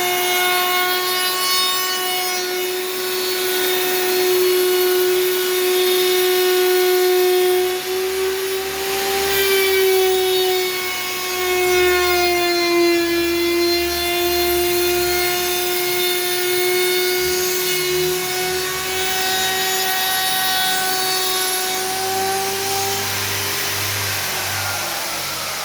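Electric woodworking power tool running with a steady high whine. The pitch sags a little around the middle. Near the end it fades and winds down.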